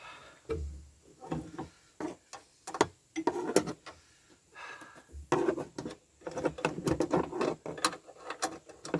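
Open-ended spanner working a nut on the washer-bottle bracket bolts: irregular metal clicks, knocks and scrapes, thickening into a dense run of clicks over the last few seconds.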